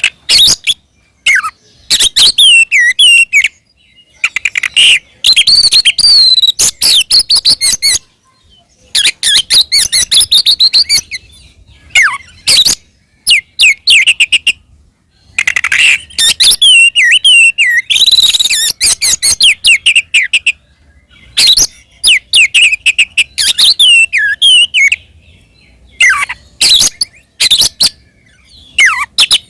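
Oriental magpie-robin singing loudly in fast phrases of whistles, trills and sweeping notes, each a second or two long with short pauses between them: the full, aggressive song of a bird in fighting mood.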